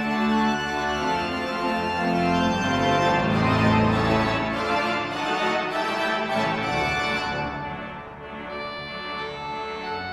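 Large pipe organ, a 189-rank Ruffatti, playing a loud full-chord passage with repeated chords in the middle, easing to a softer sustained chord near the end.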